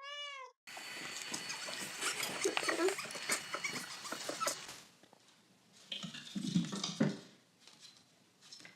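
A dog gives one short whine that rises and falls, followed by a jumble of noise with scattered clicks and knocks.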